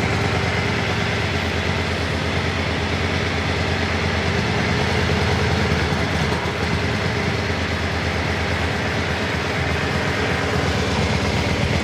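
The 1993 Yamaha Virago 535's air-cooled V-twin engine idles steadily, with an even, fast pulse.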